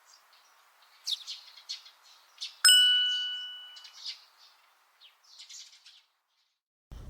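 Small birds chirping, with a single clear bell-like ding about two and a half seconds in that rings on and fades over a second or so. Just before the end the sound cuts abruptly to a low rumbling noise.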